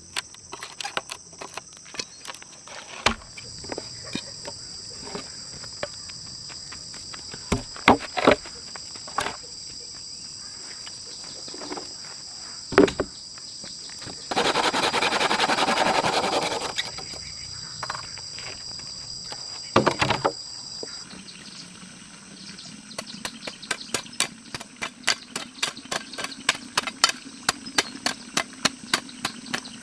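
Insects, crickets by their sound, chirping in a steady high drone, with scattered sharp knocks and taps over it. About halfway through a loud rushing noise lasts some three seconds, and in the last third the drone thins while a quick run of taps, several a second, sets in over a low hum.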